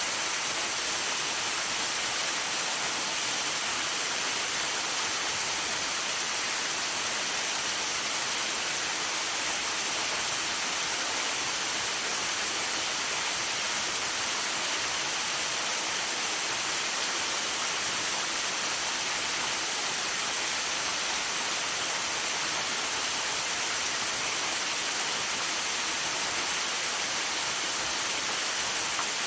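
Waterfall rushing in a steady, unbroken hiss, mixed with rain and sleet falling.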